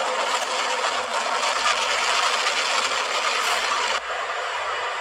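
Train running sound effect: a steady rushing, rattling noise with no horn, turning slightly duller about four seconds in.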